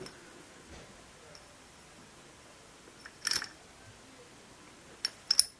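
A few sharp metallic clicks and clinks from small two-stroke engine parts being handled as the piston is taken off: a short cluster about three seconds in, then two quick clicks near the end.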